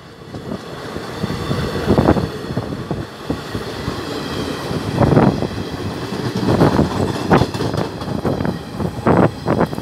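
Passenger coaches of an express train rushing past at speed. The wheels clatter over the rail joints in loud, irregular knocks over a steady rushing noise.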